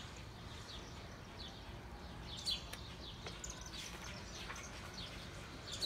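Birds chirping: scattered short, high chirps over a low, steady background rumble.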